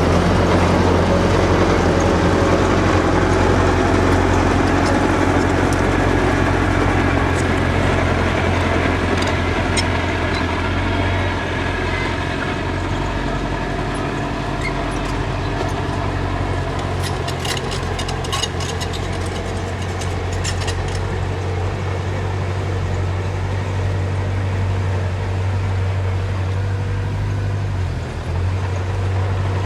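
Engine of a heavy construction machine running steadily with a low drone. A brief cluster of sharp metallic clicks and clanks comes about two-thirds of the way through.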